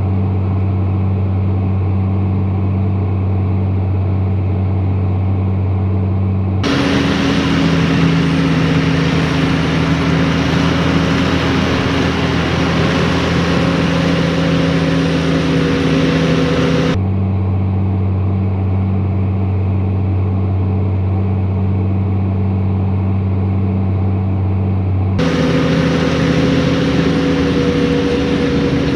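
Tractor engine running steadily under load. The sound switches abruptly about seven seconds in, again near seventeen seconds and again near twenty-five seconds, between a deep, muffled drone and a brighter, higher-pitched running sound.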